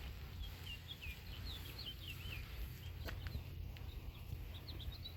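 Small birds chirping, many quick short notes close together, over a low steady rumble, with a single sharp click about three seconds in.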